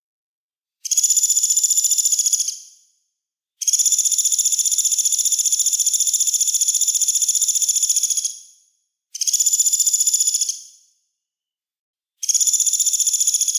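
Songbird's harsh, rasping buzz call ('besetan') from a bird-training master recording: a very fast, high-pitched rattle in four bursts, with dead silence between them. The second burst runs about five seconds and the others one to two seconds.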